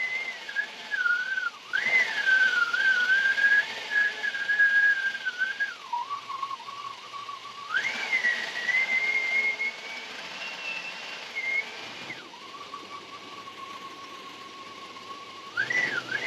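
High whistle of air being sucked into a cracked-open vacuum line on the running engine's intake while Seafoam is fed in. The whistle holds steady, then jumps to new pitches a few times, and a hiss rises and falls with each jump.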